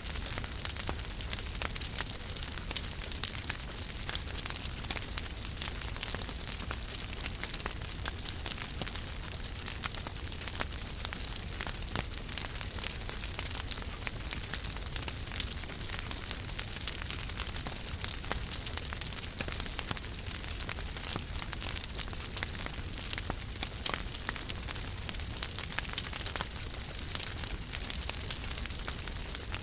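Wood fire crackling in a fireplace: a steady hiss dotted with many small snaps and pops, a few of them louder, over a low rumble.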